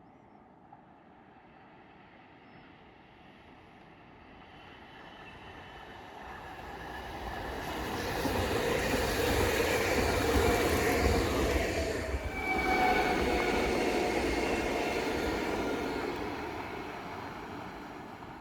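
A Roslagsbanan narrow-gauge electric train passing: it grows louder from about four seconds in, is loudest through the middle with a brief dip, then fades away near the end.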